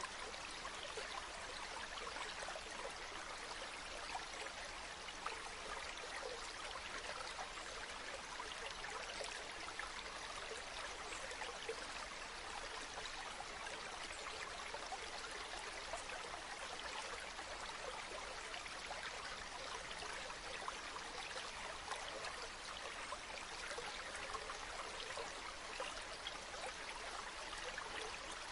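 Running water flowing steadily, a continuous splashing hiss with many small droplet sounds throughout.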